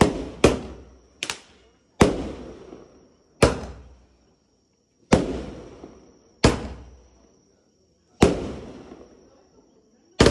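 Consumer fireworks going off: about nine loud bangs at uneven intervals, each trailing off in a rolling echo.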